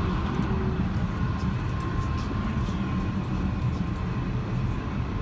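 Steady low rumble of a passenger train heard from inside an H-set carriage, with a faint thin whine above it.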